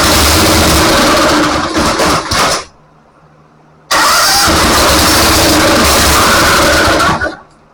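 Honda V-twin gasoline engine cranked and firing loudly in two short tries of about three seconds each. The first sputters out about two and a half seconds in, and the second starts about a second later and cuts off near the end. It runs only briefly because fuel is not coming through its carburetor.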